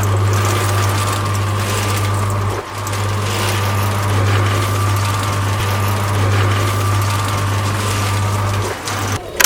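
A small DC electric motor runs steadily with a low hum and a thin higher whine, dipping for a moment about two and a half seconds in and cutting out near the end.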